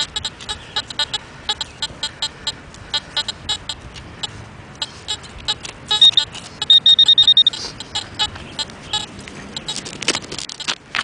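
Handheld metal-detecting pinpointer being worked in a dig hole: scattered short scrapes and chirps, then, about six seconds in, a second and a half of rapid, loud high beeping as it sounds on a buried target.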